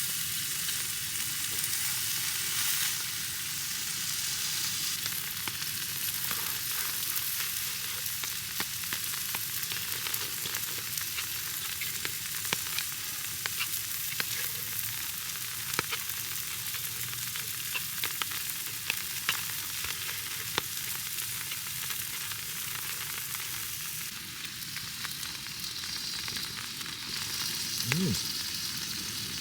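Meat rolls frying in a pan: a steady sizzle with scattered sharp pops of spitting fat.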